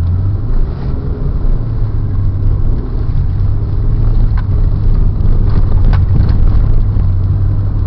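Front-wheel-drive car driving on snow: the engine hums steadily under the noise of the tyres, growing gradually louder as the car speeds up.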